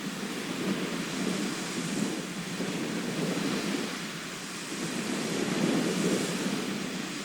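Sea surf: waves washing in, the rushing noise swelling and easing in slow surges, louder about two seconds in and again near the end.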